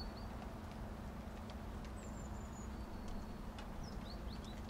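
Light rain with scattered drip ticks over a steady low rumble, and a few short, high chirps of a small bird: one falling note about two seconds in and a quick run of three or four falling notes near the end.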